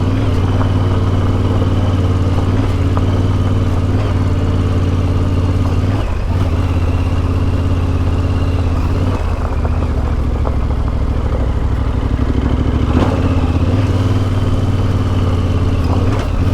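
Yamaha Ténéré 700's CP2 689 cc parallel-twin engine through an Akrapovic exhaust, running under way at a steady throttle, with the engine note dropping and picking up again a few times as the throttle is eased and reopened.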